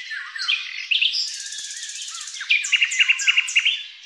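Birdsong: varied chirps and quick trills, ending with a run of about five loud, evenly spaced notes.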